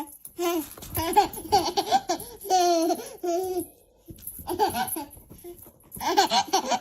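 A baby laughing in repeated bursts of high-pitched giggles, with a short pause about four seconds in.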